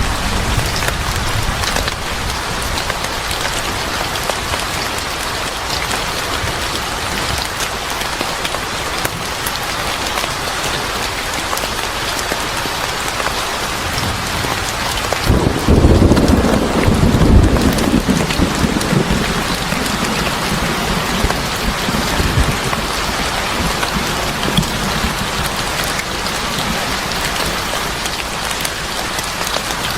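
Steady heavy rain falling, with a low roll of thunder about halfway through that is the loudest part.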